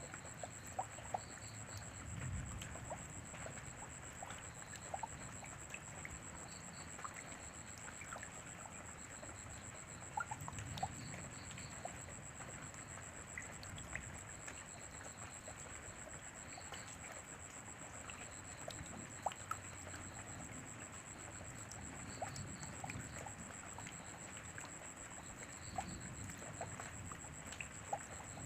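Rain falling steadily, with scattered drips and trickles and a constant high-pitched tone behind it.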